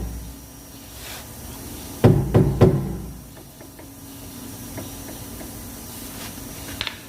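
Three quick knocks about a quarter second apart, about two seconds in, then a few faint ticks, from a car's brake caliper as it is checked for play. It still has a little play.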